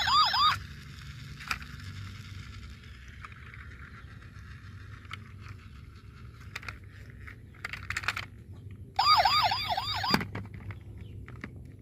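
Toy electronic siren yelping in fast rising sweeps, about six a second: briefly at the start and again for about a second near the end. Faint clicks and rattles come between the two bursts.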